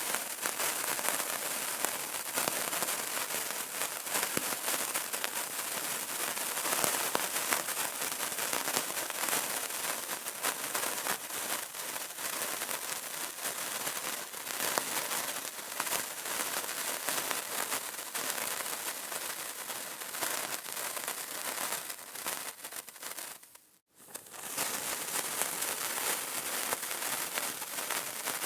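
Steady, dense crackling of a burning candle, a continuous stream of small pops and ticks. Late on it briefly fades out to near silence and straight back in.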